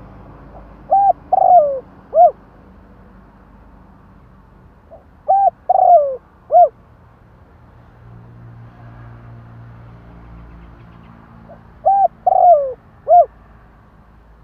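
Spotted dove cooing: three phrases about five seconds apart, each a short coo, a longer coo that falls in pitch, and a last short coo.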